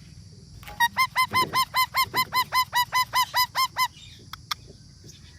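A parrot calling: a rapid run of about fifteen short, identical squawks, around five a second for some three seconds, then stopping, followed by a couple of brief clicks.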